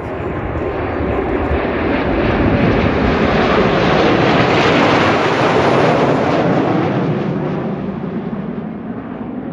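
Kawasaki T-4 jet trainers passing overhead. The jet engine noise swells to its loudest about halfway through, then fades away.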